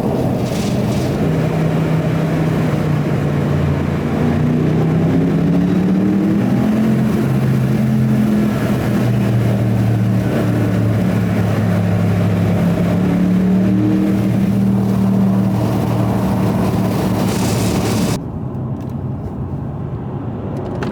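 BMW M850i's 4.4-litre V8 under way with the windows down, its engine note rising in pitch twice as it accelerates, over wind rush. Near the end the sound drops abruptly to a quieter, duller drone.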